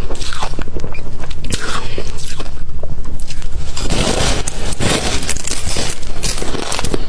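Close-miked chewing of crunchy ice: a dense run of sharp cracks and crunches as the ice breaks between the teeth.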